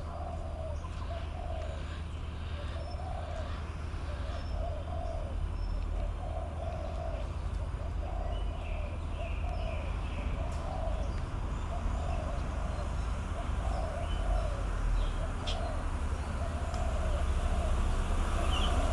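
A bird giving a long series of low, arched hooting calls, about one a second, over a steady low rumble of traffic.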